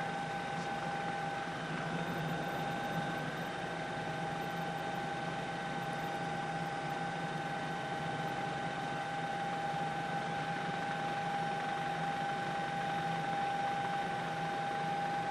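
Helicopter noise heard from aboard the aircraft: a steady, unchanging whine over an even rush and a low hum.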